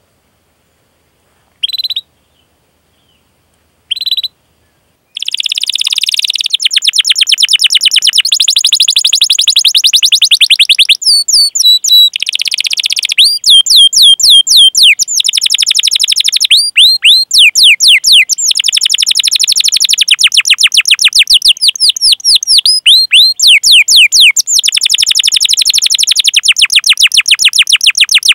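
Domestic canary singing at close range: two short single chirps, then from about five seconds in a long unbroken song of very fast rolling trills mixed with repeated falling 'cuit cuit' chirp notes.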